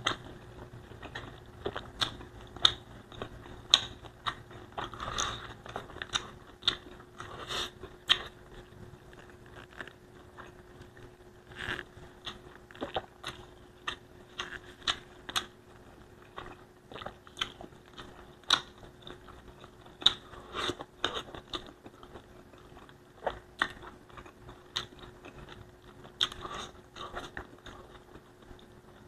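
Close-miked eating: a person chewing and biting a mouthful of Bicol Express pork with rice, with many irregular sharp mouth clicks and crunches. A faint steady hum runs underneath.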